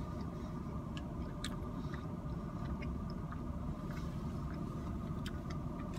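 Steady low hum inside a car cabin, with a few faint clicks from someone chewing a mouthful of chicken stew.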